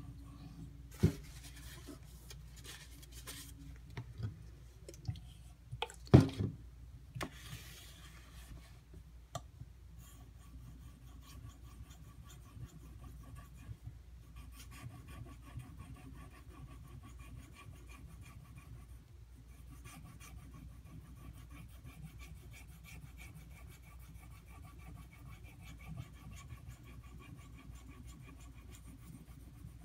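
Steel knife blade of an Ontario Utilitac II tanto being worked in repeated sharpening strokes, a faint steady rubbing. A few sharp knocks in the first several seconds, the loudest about six seconds in.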